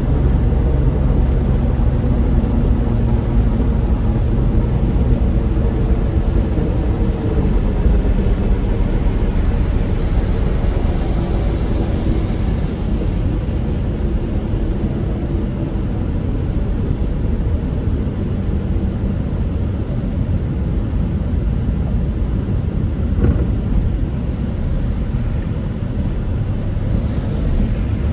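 Car driving in the rain, heard from inside the cabin: a steady low rumble of engine and tyre noise with an even hiss above it.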